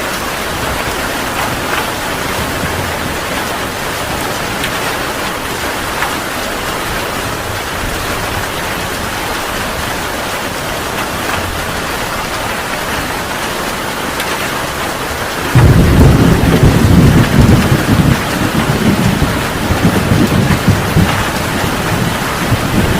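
Heavy rain falling steadily; about two-thirds of the way through, a loud clap of thunder breaks in suddenly and rolls on in rumbling waves.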